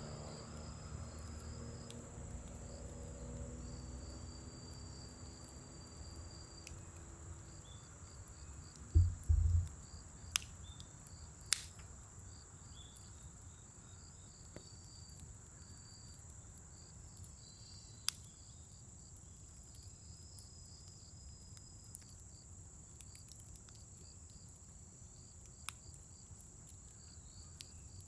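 Insects chirping steadily: a high continuous trill with a lower, pulsing chirp over it. A few sharp pops from the burning scrap wood crackling stand out, with a couple of dull thumps about nine seconds in.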